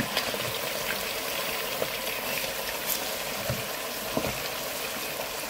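Chicken pieces frying in hot oil in a pan: a steady sizzle with a few faint small pops.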